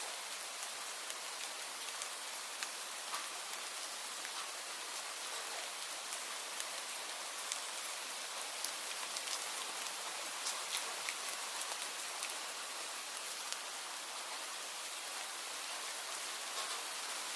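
Leaves rustling steadily in the wind, a continuous hiss scattered with light ticks and a few sharper taps.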